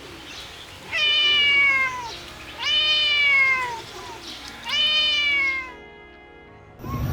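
A kitten meowing three times, each meow long and falling in pitch, about a second and a half apart.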